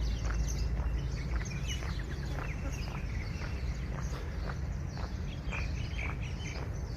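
Footsteps at a steady walking pace, about two steps a second, with birds chirping now and then over a steady low rumble.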